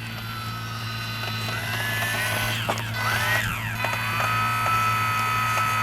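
Small electric motor and propeller of an ultra-micro RC plane whining just after takeoff. The pitch rises and swoops up and down around the middle, then holds steady.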